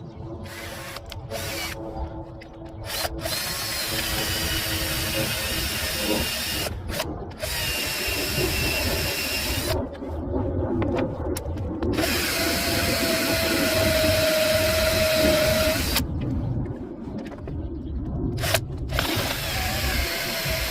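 Handheld electric power tool running in several separate runs, with a whine that shifts in pitch and sudden cut-offs between runs.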